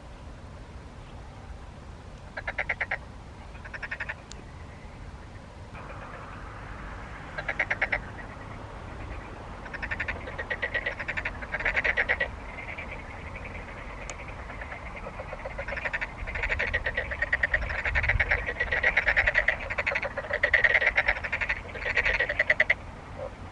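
Frogs calling: short bouts of rapid pulsed croaks, spaced apart at first, then several frogs overlapping in a denser chorus for the last third.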